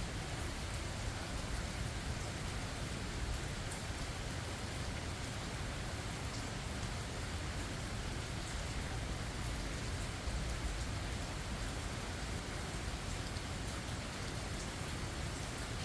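Steady rain falling in a forest, with scattered drops ticking among the steady hiss.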